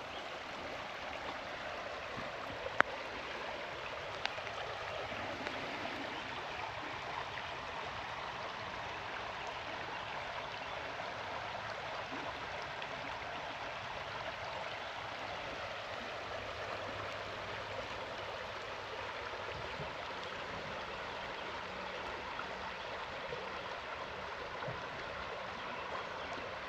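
Steady rush of flowing river water, with a single sharp click about three seconds in.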